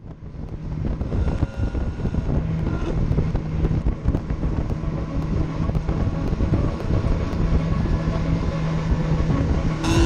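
Mazda Miata race car's four-cylinder engine running at a steady pitch under dense road and wind rumble, the sound swelling up over the first second or two.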